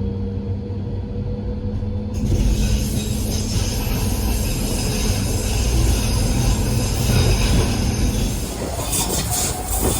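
Docklands Light Railway train running on the rails, heard on board. A steady motor tone gives way about two seconds in to louder wheel and rail noise, with a run of clicks near the end.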